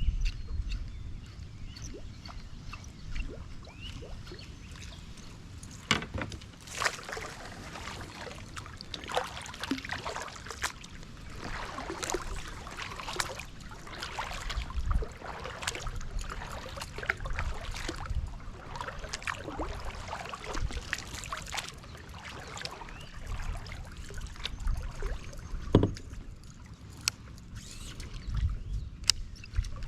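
Water splashing and trickling, heaviest through the middle, with scattered knocks and clicks over a low rumble.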